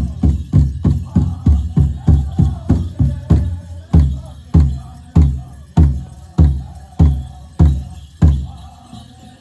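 Powwow drum struck in unison by a drum group, with singing behind it: quick, even beats of about three a second slow after about three seconds to under two a second, then stop shortly before the end.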